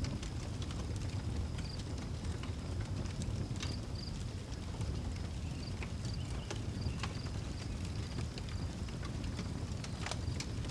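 Outdoor wood fire crackling, with scattered sharp pops over a steady low rumble. Short high chirps come and go throughout.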